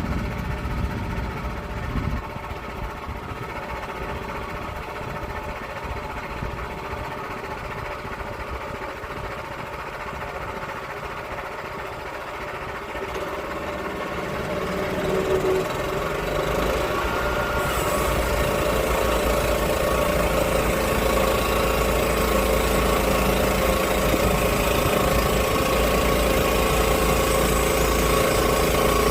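Engine running steadily, its level climbing over a few seconds about halfway through and then holding louder, with a hiss coming in.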